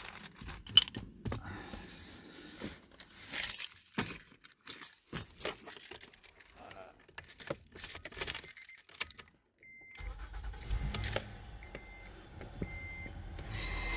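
Keys jangling and clinking at a Honda Odyssey's steering column and ignition. About ten seconds in, a low steady hum starts and the car beeps short, repeated tones.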